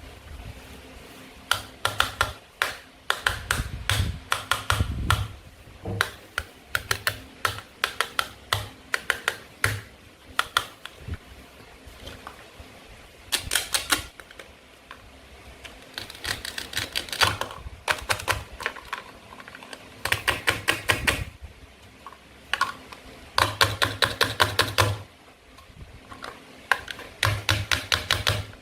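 Bursts of rapid clicking and crackling from plastic play-food fruit and vegetable toys being cut apart and handled, each burst lasting about a second.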